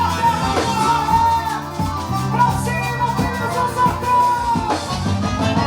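Live band playing at a soundcheck: a drum kit keeps the beat under a full band, with a melodic lead line that slides and bends above it.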